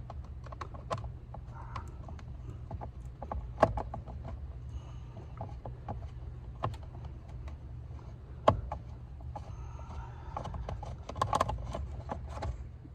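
Scattered clicks and taps of a long-reach Phillips screwdriver working screws out of a plastic steering-column shroud, with two sharper knocks, one about three and a half seconds in and one about eight and a half seconds in, over a steady low hum.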